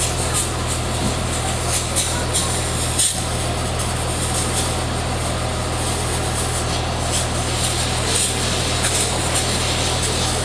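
Fire truck engine running steadily, a constant low hum with a noisy wash over it.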